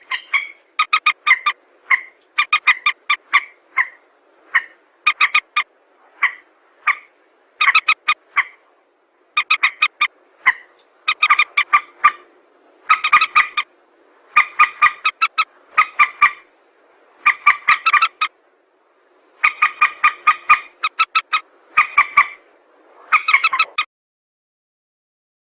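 Recorded calls of a rail (burung mandar) played as a bird lure: runs of short, sharp, rapidly repeated notes in bursts about a second long, which stop a little before the end.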